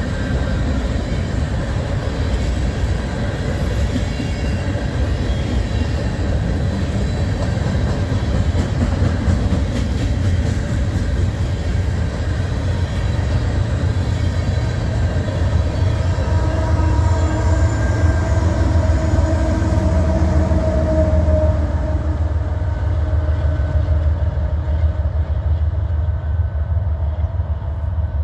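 Freight cars of a Union Pacific train rolling past on the rails with a steady low rumble. Thin squealing tones from the wheels rise over it in the second half.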